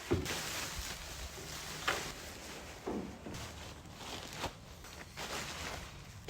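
Rustling and scraping as camping gear is handled and packed away, with several sharp scrapes spread through.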